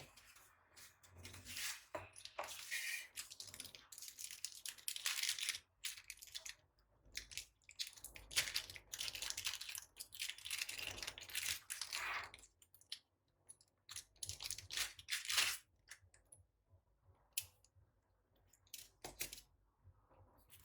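Webcam packaging being handled and opened: irregular bursts of rustling, crinkling and tearing, which thin out to a few short clicks near the end.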